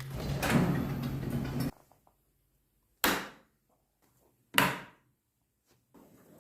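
Shop door being opened: a rough sliding, rumbling noise for about a second and a half, then two sharp bangs a second and a half apart.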